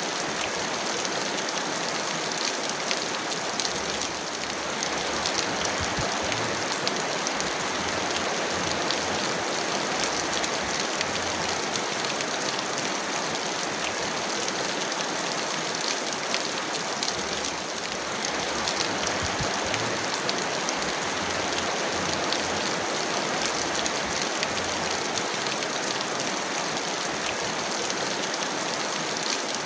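Heavy rain falling steadily: a dense, even hiss with many separate drops ticking through it.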